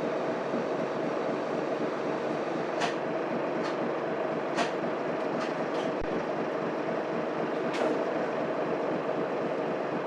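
Cabin sound of a Mitsubishi Fuso Aerostar city bus underway, its 6M70 inline-six diesel running steadily under road and drivetrain noise. A few short sharp clicks or rattles come through the middle part.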